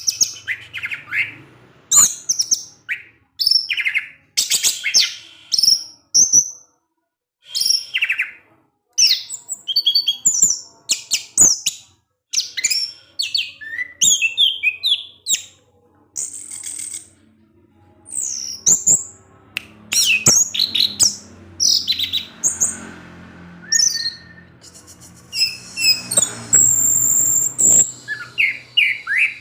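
Orange-headed thrush (anis merah) singing its fast, varied 'ngecip ngecis' chattering song: quick chirps and whistled notes strung into short phrases with brief pauses between them. This is the kind of song played as a lure to coax a quiet thrush into singing.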